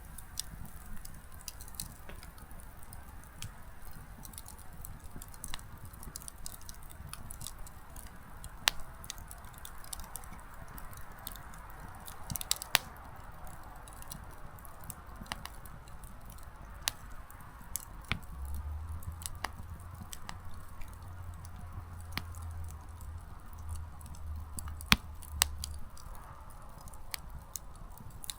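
Small wood campfire crackling: frequent sharp pops and snaps from burning firewood over a soft, steady hiss of flame.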